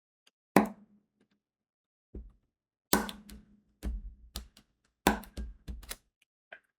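Diamond painting work sounds: a drill pen pressing crystal drills onto the sticky canvas, about eight irregular sharp taps and clicks, several with a dull thud on the tabletop.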